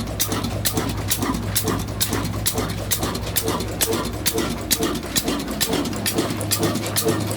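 A 22 hp single-cylinder 'kala' diesel engine running steadily, with an even chug of about three exhaust beats a second over a low hum.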